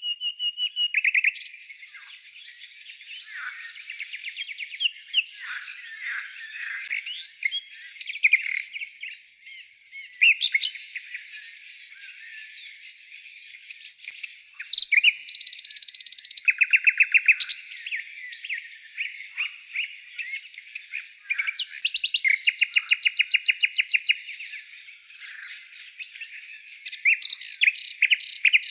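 Many songbirds singing at once, a dense chorus of chirps and whistles with fast trills of rapidly repeated notes several times.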